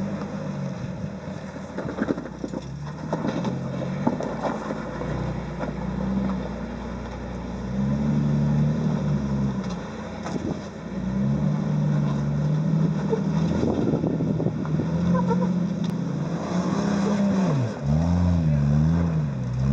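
Off-road vehicle engine running under load and being revved up and down as it crawls over rock, with a few sharp knocks in the first seconds. Near the end the revs rise and fall quickly a couple of times.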